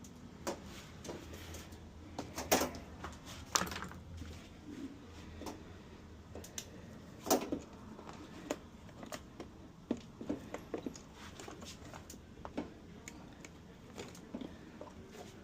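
Irregular clicks and knocks of hard objects being handled, with the sharpest hits about two and a half, three and a half and seven seconds in.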